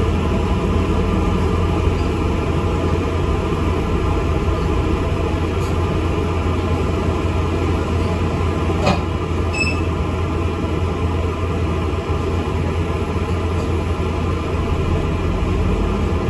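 Inside an ADL Enviro 400 MMC double-decker bus on the move: steady engine and road rumble, with one short sharp rattle about nine seconds in.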